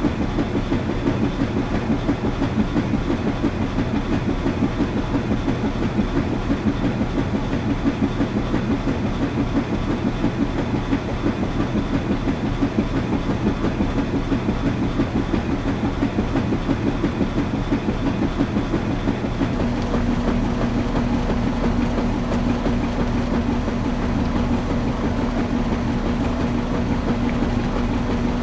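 Washing machine running, its drum turning with a fast, even churning pulse. About two-thirds of the way in, the sound changes to a steadier hum with a low drone and a steady tone.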